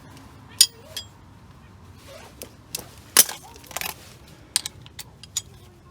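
Scattered metallic clinks and clanks of hand tools being handled and set down, about half a dozen sharp knocks with the loudest about three seconds in.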